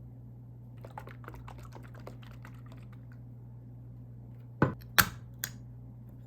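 Objects being handled on a table: a quick run of light crinkly clicks for about two seconds, then two loud sharp knocks and a smaller third one, over a low steady hum.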